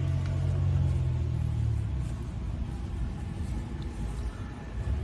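A motor vehicle's engine running with a steady low rumble. It is loudest for about the first two seconds, then eases off.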